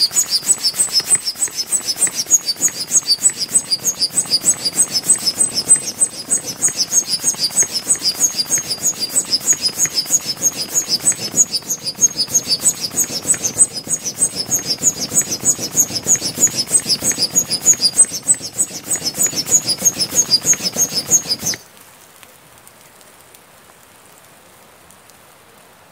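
A bird chirping rapidly and evenly in a high voice, about five or six short chirps a second, over a low rushing noise. Both stop abruptly a few seconds before the end, leaving only a faint background.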